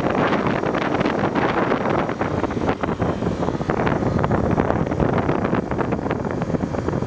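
Heavy wind buffeting a microphone carried on a moving motorcycle, with the single-cylinder engine of a Honda XR250 Tornado running underneath at a steady cruise.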